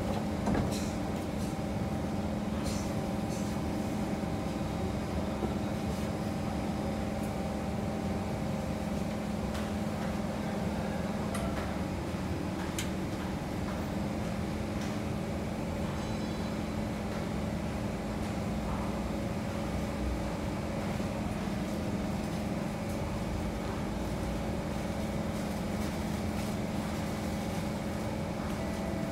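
Steady noise inside a Kawasaki C151 metro train car: an even rumble with a low, steady hum and a few faint clicks.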